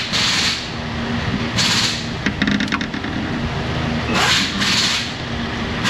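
Prying at a valve cover stuck on its spark plug tube seals: a quick run of sharp clicks about halfway through, with heavy effortful breaths before and after, over a steady low engine-like hum.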